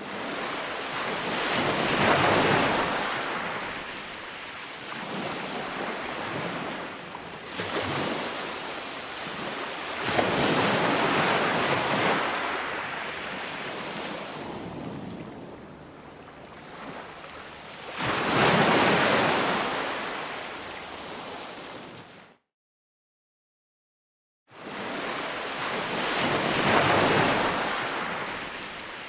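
Ocean surf: waves breaking and washing in, swelling and falling away about every eight seconds. The sound cuts out completely for about two seconds near the end, then comes back with the next wave.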